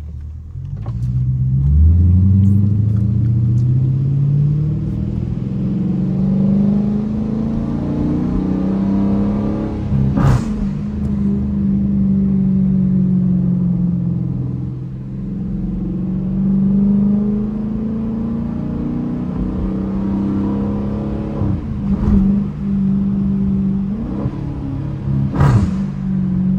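Dodge Challenger R/T's HEMI V8 heard from inside the cabin, revving up hard as the car accelerates about two seconds in, then running on under load with its pitch rising and falling.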